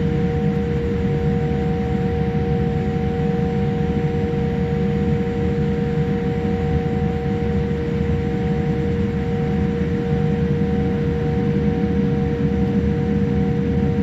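Steady cabin noise inside a Boeing 787-8 airliner: a constant low rumble with two steady humming tones over it, unchanging throughout.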